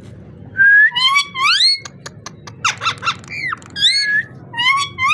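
Parrot whistling: rising whistled notes, a quick string of short squeaky calls in the middle, then more rising whistles near the end.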